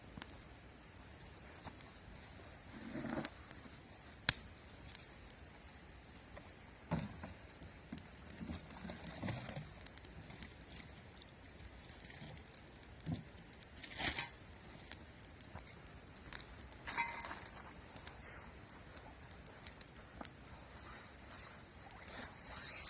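Irregular rustling, crinkling and small clicks, with one sharp snap about four seconds in.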